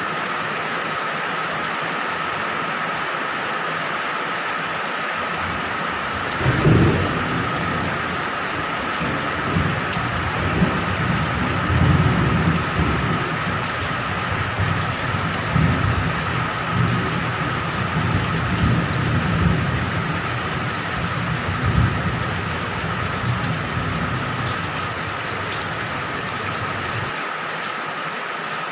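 Steady rain hissing throughout. A thunderclap about six seconds in is followed by rolling thunder that rumbles on and dies away near the end.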